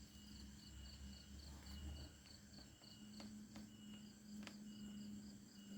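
Faint insects chirping in a steady pulsed rhythm, about three to four pulses a second, with a few faint clicks in the second half.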